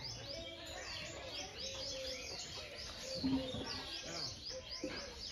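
Birds chirping: a quick, even run of short high notes, each falling in pitch, several a second, with faint voices underneath.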